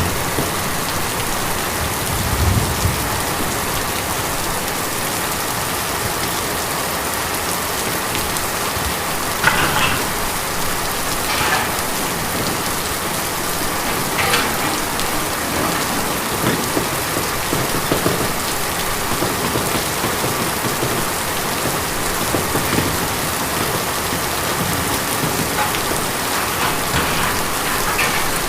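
Steady rain falling on a tin roof, an even patter with a few louder single drops striking now and then.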